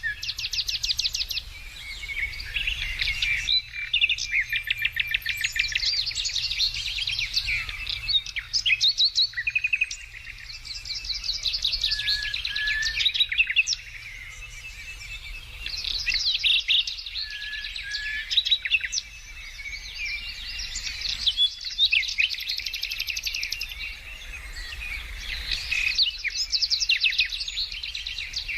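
Several songbirds singing and chirping together, with fast trills and chirps overlapping in waves and brief lulls between them.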